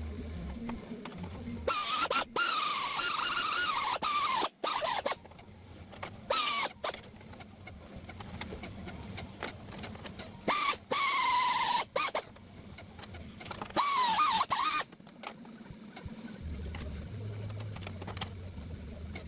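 Five separate bursts of a power tool grinding or cutting sheet metal. Each burst lasts about half a second to two seconds, with a high whine that wavers and sinks in pitch as the tool takes load, and a low hum between them.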